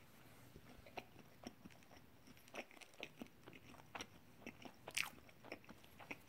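Faint chewing of a mouthful of glazed-donut sandwich: scattered soft mouth clicks, one a little louder about five seconds in.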